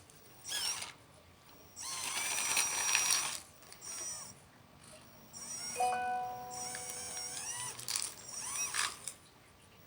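Electric motors of a radio-controlled hydraulic excavator and dump truck whining in short bursts, the pitch rising and falling as each movement starts and stops, with quiet gaps between.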